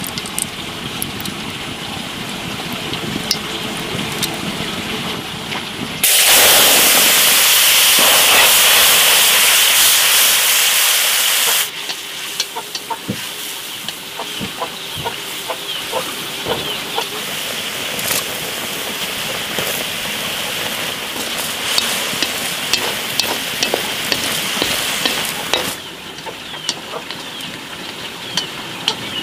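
Oil frying in a wok, with a steady sizzle and many small pops and spits. About six seconds in, a much louder, harsher sizzle starts abruptly and cuts off just as suddenly some six seconds later. The rest is crackling frying, with light clicks of the utensils stirring mussel meat in the pan.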